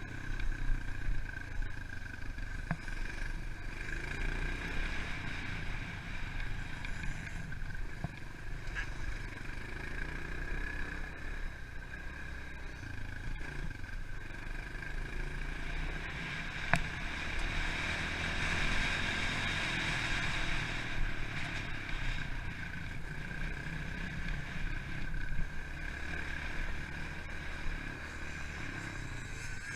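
Pit bike engine running as the bike is ridden round a motocross track, the engine note rising and falling with the throttle, with rumble from the rough ground and a few sharp knocks.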